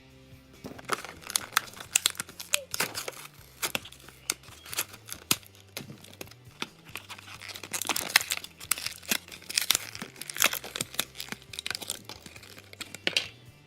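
Toy packaging being torn open and crinkled by hand: dense, irregular crackling and tearing that starts about a second in and stops shortly before the end.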